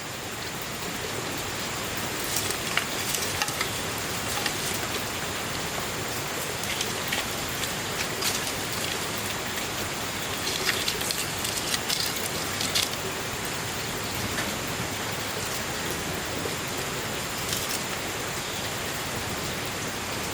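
Steady rain: an even hiss with scattered sharper ticks of drops.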